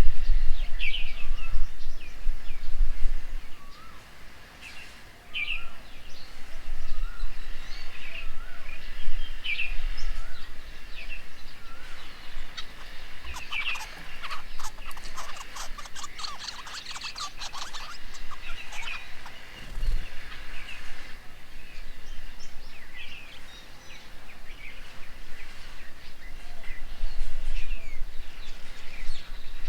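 Birds calling at a feeding table: short chirps repeated every second or so, with a burst of rapid chattering in the middle, over a low rumble.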